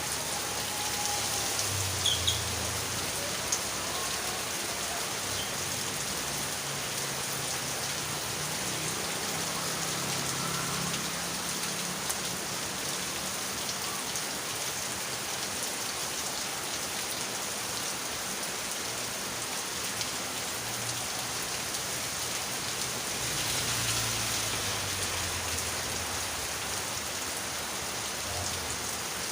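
Heavy rain pouring down steadily on a flooded road. A low hum rises and fades a few times, and the rain swells briefly about 24 seconds in.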